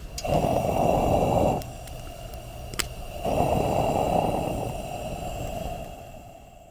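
Two long, breathy blowing rushes, the first about a second and a half, the second longer and tailing off, over a burning campfire with a few sharp crackles.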